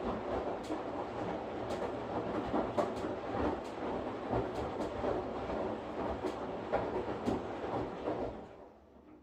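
Washing machine running: a steady churning rush with irregular clicks and knocks from the tumbling drum, dying away about eight seconds in.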